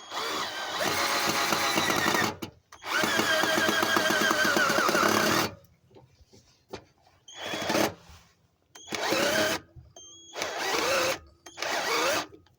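Power drill driving two wood screws into a gate's corner joint. Two long runs come first, then four short trigger bursts, the motor pitch rising and sagging as each screw bites into the timber.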